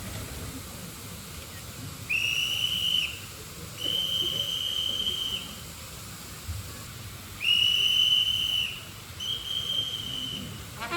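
A whistle blown in four long, steady blasts, each held at one high pitch for about a second or more, over faint crowd and wind noise.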